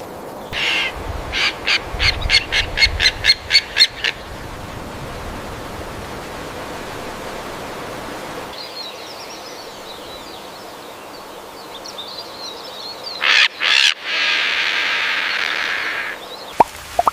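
Birds calling: a short call, then a fast run of about a dozen evenly repeated notes, about four a second. Faint high twittering follows, and near the end come two loud calls and a long harsh call lasting about two seconds.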